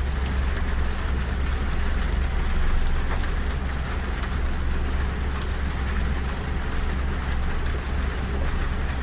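Rain falling on a train carriage's window and roof, with scattered drop ticks, over the steady low rumble of the moving train.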